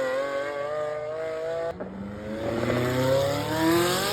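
Exotic sports car engine accelerating hard, its pitch climbing, with an upshift about two seconds in before it climbs again.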